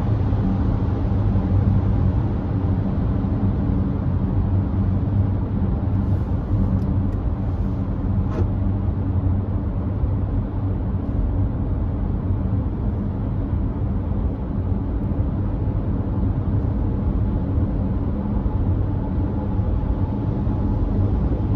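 Steady road noise of a Nissan Note e-POWER cruising on a wet expressway: tyre noise with an even low hum throughout. A few faint ticks come about six to eight seconds in.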